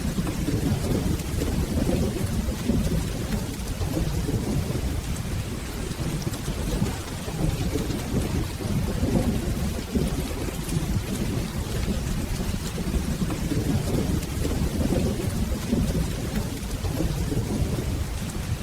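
Steady rain with a continuous low rumble of rolling thunder that swells and fades.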